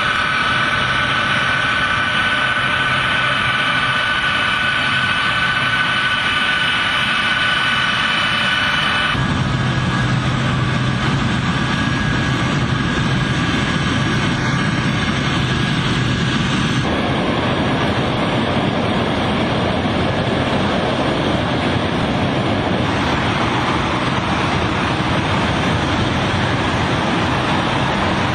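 Aircraft engine noise, steady and loud with a whining tone in parts, changing abruptly about 9 and 17 seconds in as one stretch of sound gives way to another.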